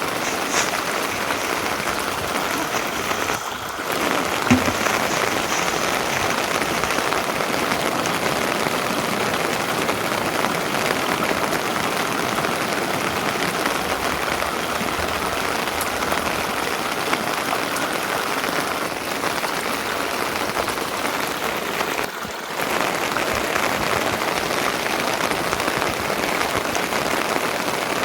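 Steady rain falling, a dense even patter, dipping briefly twice: a few seconds in and again about three-quarters of the way through.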